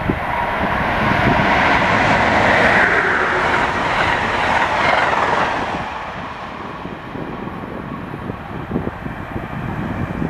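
An Amtrak Keystone train, led by an ACS-64 electric locomotive, passing at speed: a loud rush of wheel and rail noise that swells as it arrives, peaks for a few seconds, and fades from about six seconds in as it recedes.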